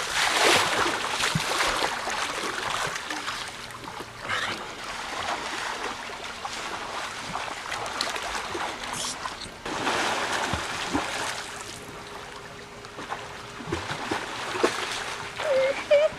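Water rushing and splashing along the hull of a moving boat, surging louder and softer in uneven waves.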